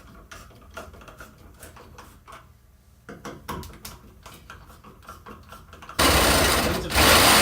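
Scattered light clicks and knocks, then about six seconds in a loud, steady machine noise starts suddenly.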